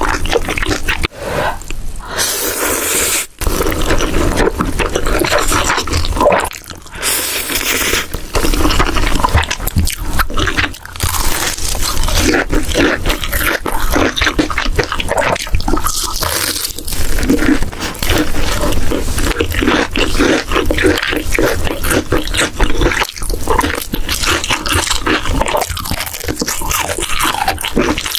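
Close-miked chewing and mouth sounds of a person eating, continuous throughout, with crunching.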